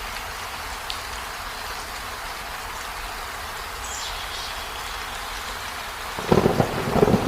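Steady rain hiss, with a loud rumble of thunder breaking in about six seconds in.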